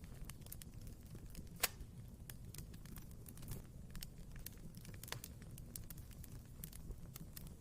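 Wood fire burning in a fireplace: a low steady rumble of flames with scattered crackles, and a sharp pop from the burning logs about one and a half seconds in, another weaker one past the halfway point.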